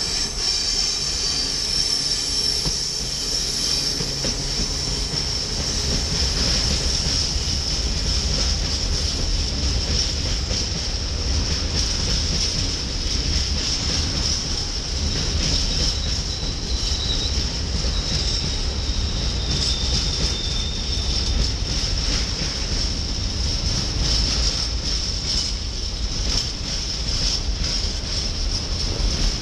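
Freight train of open hopper wagons rolling past on curved track: a steady high-pitched wheel squeal over a continuous low rumble of wheels on rail, with scattered knocks from the wagons.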